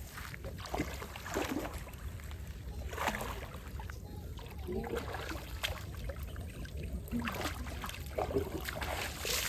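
River water lapping and trickling, with scattered small splashes over a steady low rumble.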